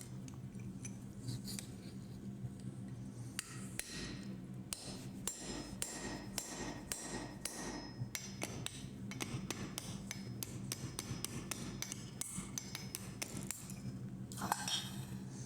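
Hammer striking a hand punch driven into hot iron, a series of sharp blows at an uneven pace, enlarging a punched hole.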